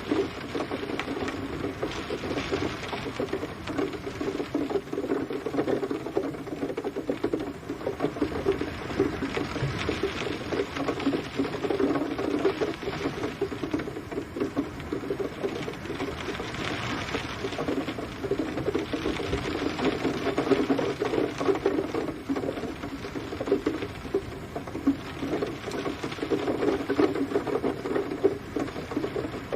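Rain pattering steadily in a dense mass of drops, swelling and easing every few seconds.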